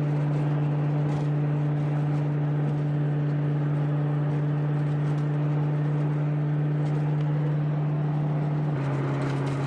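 Ford Mustang's exhaust droning at a steady cruise, one even low hum that drops slightly in pitch near the end.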